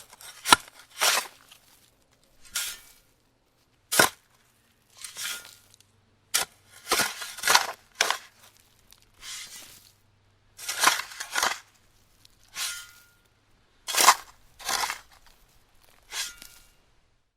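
A tool at work: an irregular series of sharp knocks and short scraping, crunching noises, about one to three a second.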